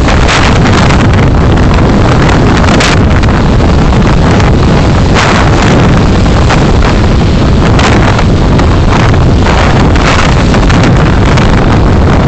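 Loud, steady road and wind noise picked up by a car's dashcam microphone while driving, with a few brief knocks now and then.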